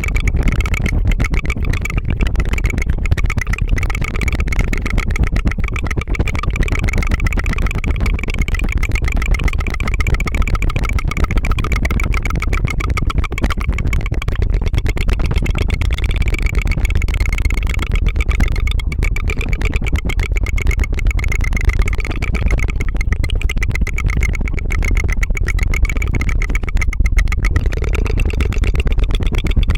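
ASMR tongue fluttering close to the microphone: a fast, continuous trill of tongue flicks that runs like a small engine ('tu tu tu').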